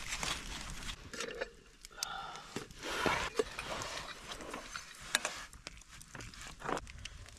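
Someone eating hot soup with a spoon: scattered small clicks and knocks, with slurping and chewing.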